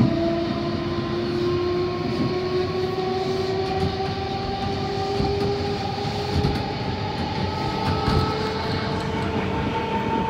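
Running noise inside an electric suburban train as it gathers speed: a whine from the drive rises slowly in pitch over the steady sound of wheels on the track, with a few faint knocks from the rails.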